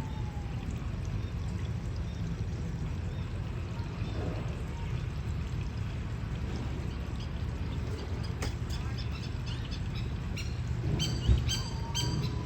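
Steady rush of running water, and near the end a quick run of sharp, ringing calls from a masked lapwing.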